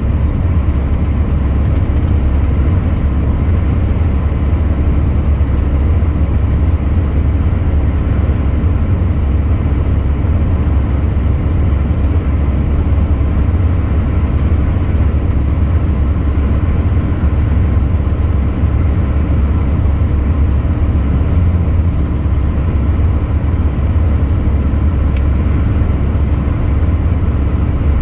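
A truck driving at a steady speed: a constant low engine and road drone that does not change.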